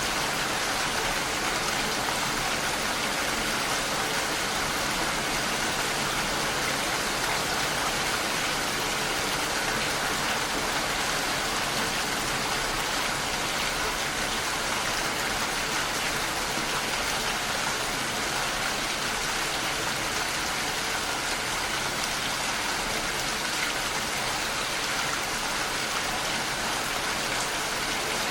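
Steady rainfall, an even hiss of drops without change.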